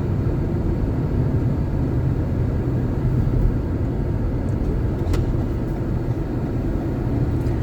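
Steady low rumble of a car's engine and tyres heard from inside the cabin while driving slowly, with a faint click about five seconds in.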